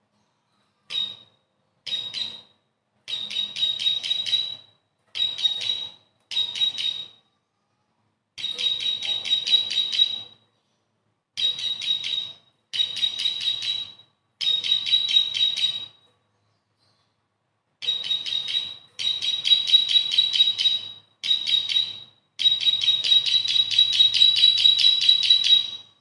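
Bar-winged prinia (ciblek) singing: a series of high, rapid chirping phrases, some short bursts and some trills lasting three or four seconds, with short pauses between them.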